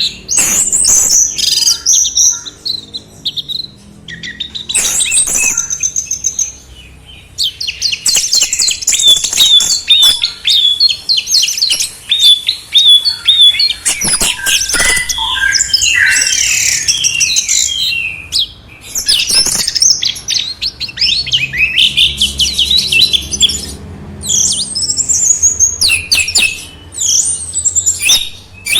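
Songbird singing a long, varied song of high whistles, rapid trills and chirps, in phrases broken by short pauses.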